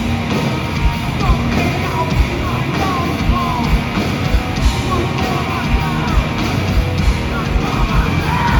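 Hardcore punk band playing live and loud: distorted electric guitars and bass over a steady, driving drum beat, with short bent notes cutting through the mix.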